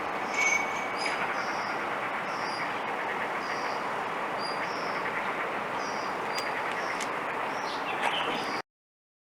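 Blue rock thrush calling in short, high-pitched notes, repeated about once or twice a second, over a steady loud background noise. The sound cuts off abruptly near the end.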